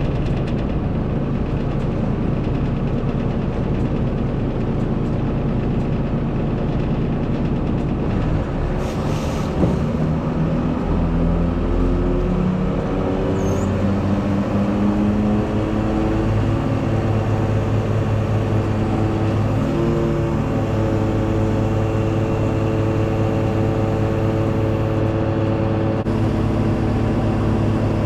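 Volvo FE 320 lorry's diesel engine running under way, its pitch climbing as it pulls up through the revs from about ten seconds in, then settling to a steady drone. A single knock about nine seconds in.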